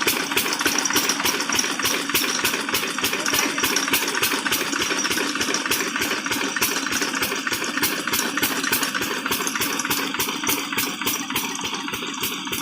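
12 hp diesel engine driving an irrigation water pump, running steadily with each firing stroke a distinct beat, about four a second.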